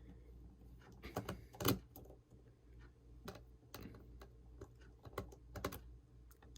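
Light, scattered clicks and taps of a precision screwdriver and a tiny screw on an iPhone 6's battery bracket as the screw is driven in. The loudest clicks come about a second to a second and a half in.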